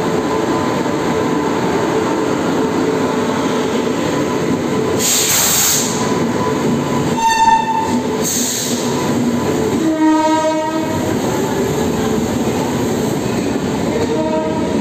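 WAP7 electric locomotive and its passenger train rolling past along the platform with a steady rumble of wheels on rails. There are two horn blasts, a short high one about seven seconds in and a lower, longer one about ten seconds in, and two brief bursts of hiss around five and eight seconds.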